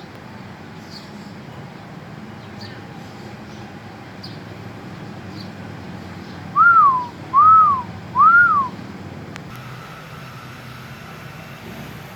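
A bird whistling three loud, clear notes, each about half a second long, each rising and then falling in pitch. Earlier, fainter high chirps repeat about once a second.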